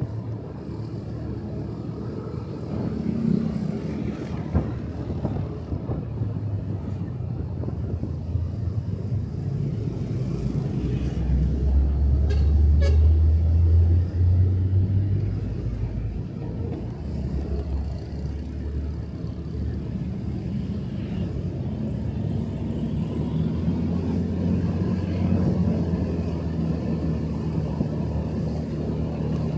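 Motorcycle engine running under way with road and wind noise. The engine hum grows louder for a few seconds about midway, then settles back.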